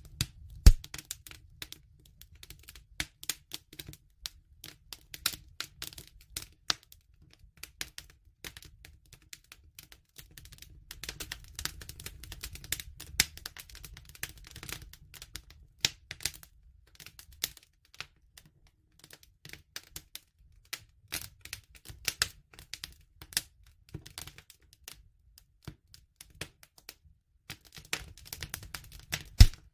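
Wood fire crackling, with irregular sharp snaps and pops over a low steady rumble of the flames. There is a loud pop about a second in and another near the end.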